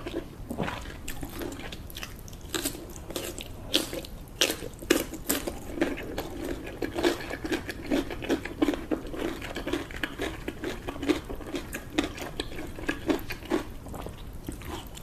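Close-miked eating: a person biting and chewing food, with many short, irregular wet clicks and smacks.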